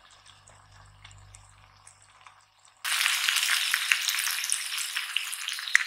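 Pork belly with minari and mushrooms sizzling in a hot pan: a faint sizzle at first, then from about three seconds in a much louder, close sizzle full of small crackling pops.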